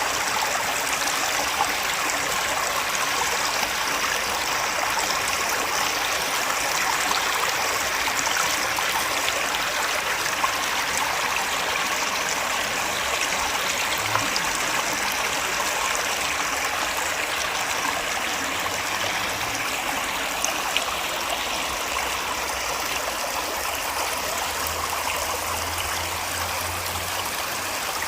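Small waterfall: water pouring and splashing steadily.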